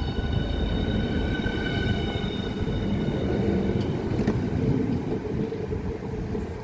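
Class 395 Javelin high-speed electric multiple unit pulling out of the platform, a steady low rumble from the train. Over it, a high steady electric whine fades away about halfway through.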